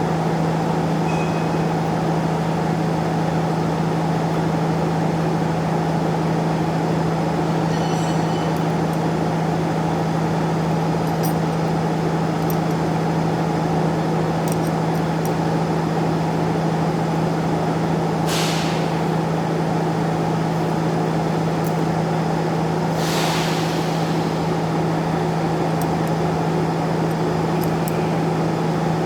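A machine running with a steady low hum that does not change in pitch or level. Two short hisses cut in, about two-thirds of the way through and again a few seconds later.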